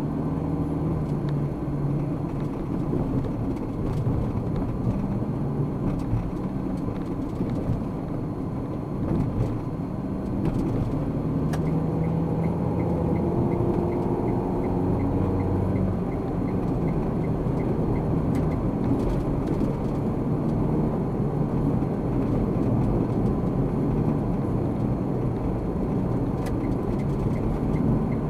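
Car driving in traffic: steady engine and tyre noise, with the engine note rising for a few seconds around the middle. A light, regular ticking, about two a second, runs for several seconds in the middle and comes back near the end.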